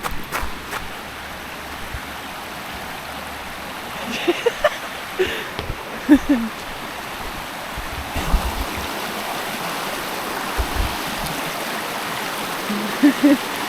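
River water flowing over stones: a steady rushing hiss.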